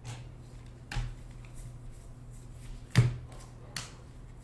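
Trading cards handled on a table: a few light clicks and taps, the loudest about three seconds in, over a low steady hum.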